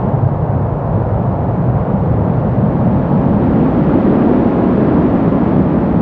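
Brown noise: a steady, deep rushing hiss with its weight in the low end and little treble, swelling and easing slightly without any tone or beat.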